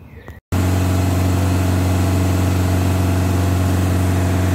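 A 2010 Ford Kuga's diesel engine idling steadily at the twin tailpipes during a forced DPF regeneration. It comes in suddenly about half a second in and holds an even, unchanging note.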